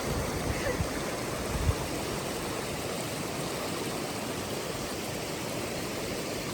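Creek water running steadily, with a brief low thump a little under two seconds in.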